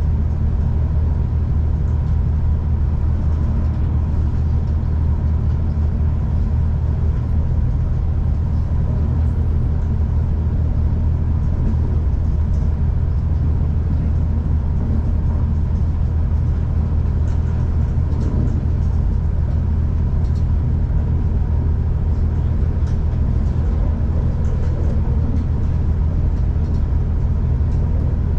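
V/Line diesel passenger train running at steady speed, heard as a continuous low rumble with a faint steady whine above it and a few light clicks.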